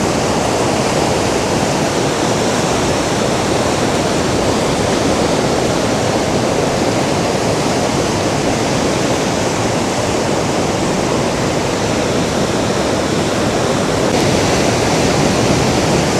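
Atlantic surf breaking and washing onto the beach: a steady, loud rushing of waves that swells a little near the end.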